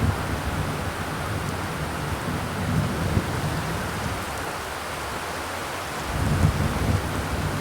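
Steady heavy rainfall with a dense, even hiss, and a low rumble that swells twice, once near the middle and again near the end.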